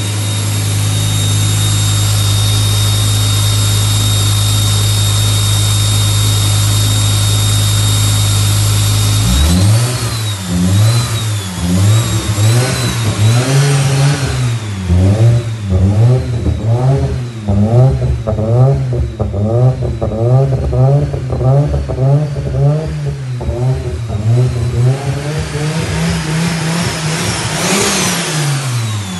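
Audi S2 coupe's turbocharged inline five-cylinder engine running on its first start after a build. It holds a steady speed with a high whine for about nine seconds. Then it is revved up and down again and again in short throttle blips, with one more blip near the end.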